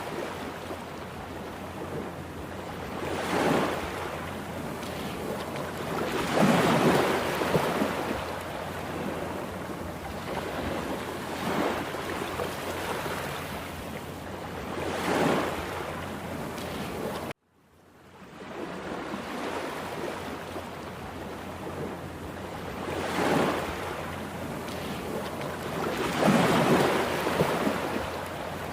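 Rough sea surf: a steady rush of breaking waves, with louder breakers swelling up every three to four seconds. The sound cuts out for a moment a little past halfway, then the surf comes back.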